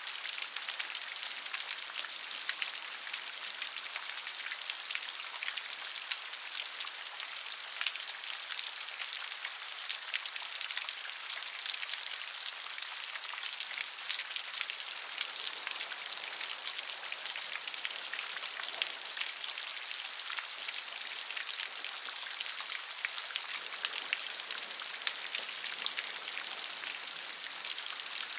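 Steady rainfall, a dense patter of drops on a surface with a constant hiss.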